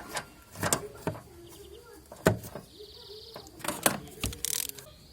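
Sharp metallic knocks and clinks of hand tools working on the car, about six strikes spread unevenly. About three seconds in there is a short ratcheting whirr, and near the end a brief hiss.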